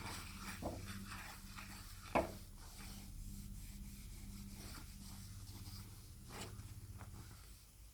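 Faint hand rubbing and scraping on a workpiece in scattered short strokes, with a sharp click about two seconds in, over a low steady hum.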